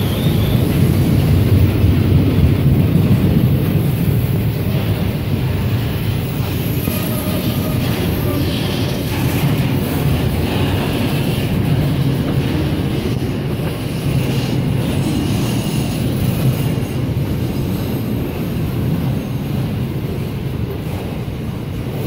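Double-stacked-style container wagons of a freight train rolling past at speed: a steady low rumble of steel wheels on the rails.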